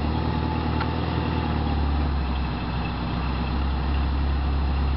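Suzuki Samurai 4x4's engine running at low revs while rock crawling over boulders: a steady low drone that eases off a little in the middle.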